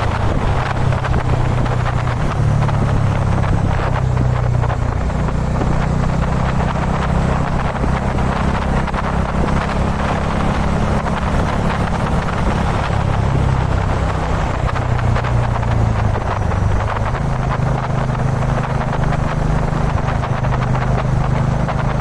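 Kawasaki Dominar 400's single-cylinder engine running steadily at highway cruising speed, with a low drone that dips and rises a little a few times. Heavy wind rushes over the microphone.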